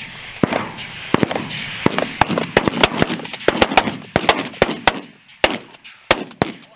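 Volley of shotgun fire from several hunters shooting at once at geese passing overhead: dozens of rapid, overlapping shots, thinning to a few scattered shots over the last couple of seconds.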